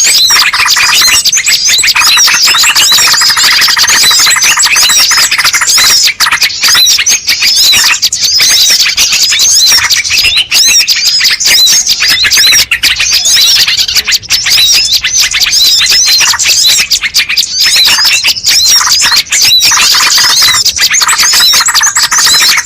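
Dense, continuous chorus of many small birds chirping and twittering in rapid, overlapping high notes: a bird-luring ('pikat') recording played to draw in wild birds.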